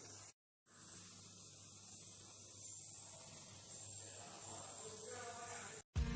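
Marinated chicken pieces frying in hot oil in a kadai: a faint, steady sizzle. It cuts out briefly just after the start.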